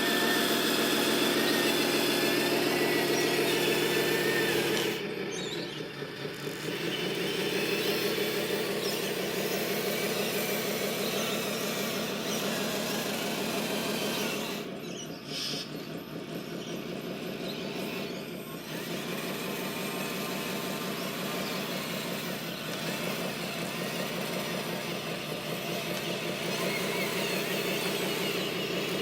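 Radio-controlled construction vehicle running: a steady mechanical hum with a pitched whine. It drops in level briefly about five seconds in and again for a few seconds around the middle.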